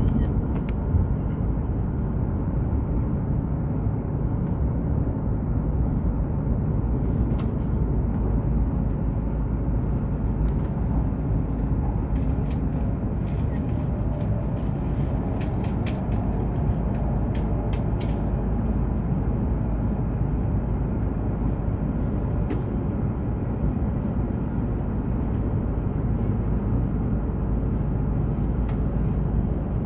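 Cabin noise of a Hokuriku Shinkansen train running at speed: a steady low rumble with faint light clicks and ticks over it.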